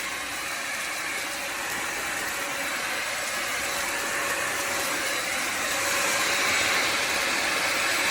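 Bissell Symphony Pet vacuum and steam mop running: a steady motor whir with a hiss, a little louder about six seconds in.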